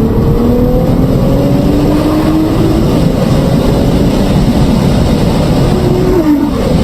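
Car engine accelerating, its pitch climbing in steps as it goes up through the gears and dropping about six seconds in. It sits under heavy, steady road and wind noise.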